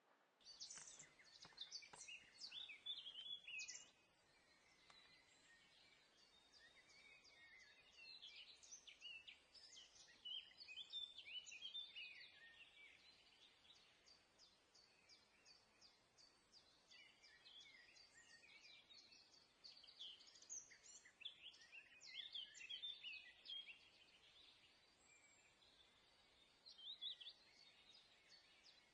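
Faint chorus of small birds chirping and trilling, the calls coming in busy bunches with quieter gaps between.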